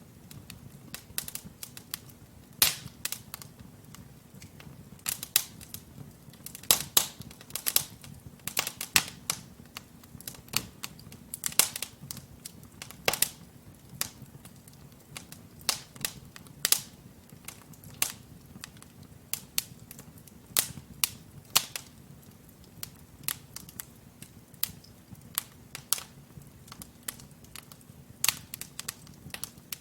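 Wood fire in a fireplace crackling: burning logs giving off frequent irregular sharp pops and snaps over a soft low rumble of the flames.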